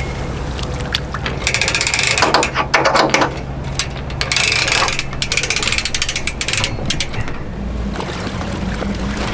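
A ratchet clicking rapidly in three runs over an engine idling steadily.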